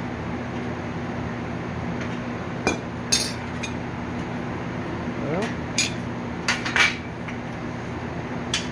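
Steel bed frame pieces clanking and knocking, metal on metal, several separate strikes while the bent leg is being forced back into shape, over a steady low hum.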